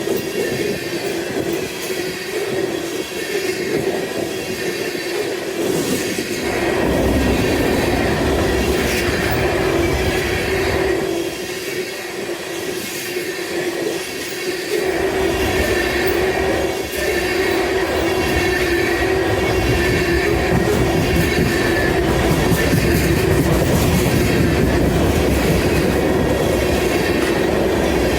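Train rolling past, its wheels clicking over rail joints under a steady squeal. A heavy low rumble comes in about six seconds in, eases off briefly in the middle, then returns.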